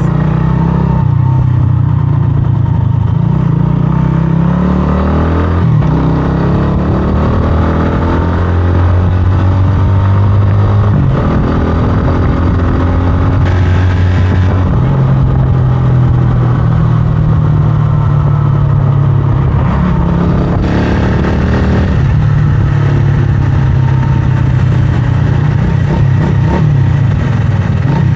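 Single-cylinder engine of a 125cc scrambler motorcycle running on the move. Its pitch rises, falls and shifts in steps as the rider accelerates, eases off and changes gear.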